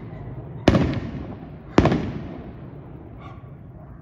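Two loud fireworks bangs about a second apart, each echoing and dying away slowly.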